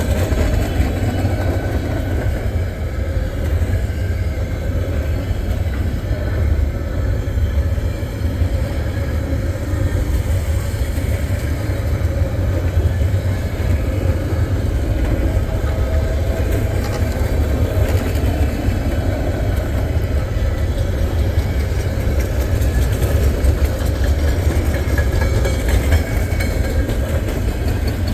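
Freight train cars rolling past: intermodal flatcars loaded with highway trailers and shipping containers, making a steady low rumble.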